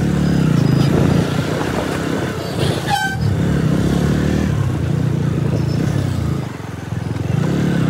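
Motorcycle engine running steadily on the road, with a short horn toot about three seconds in.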